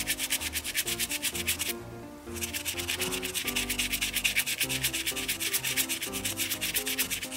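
Quick back-and-forth rubbing strokes on a small piece of baseball-glove leather as conditioner is worked in, about eight strokes a second, with a short pause about two seconds in.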